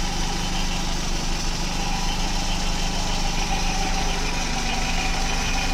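Kia Pride CD5's four-cylinder engine idling steadily, heard up close in the open engine bay. It runs smoothly and evenly, which the seller calls running nicely.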